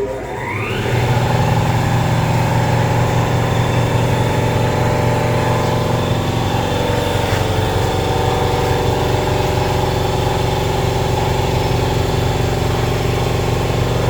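A machine motor starts up, its pitch rising briefly as it spins up. It then runs with a loud, steady low hum.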